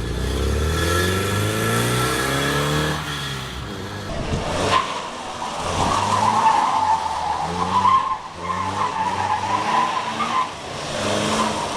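Lancia Flavia's flat-four boxer engine being driven hard: the revs fall over the first few seconds, then it revs up in steps under acceleration. From about five seconds in, tyres squeal alongside it.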